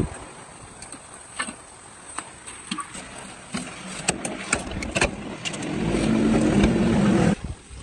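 A 200cc off-road motorcycle engine running, with scattered sharp clicks early on. Over the last couple of seconds it grows much louder, then cuts off suddenly.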